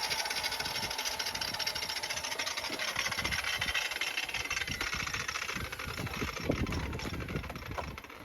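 A 9-inch angle grinder running as it cuts the broken drain pipe, a dense high whine. Low knocks join in from about three seconds in, and the grinder's sound eases and dies away near the end.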